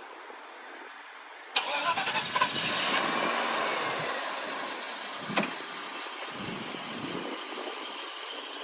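Mercedes-Benz 420 SEL's 4.2-litre V8 starting about a second and a half in, loudest just after it catches, then settling into a steady idle.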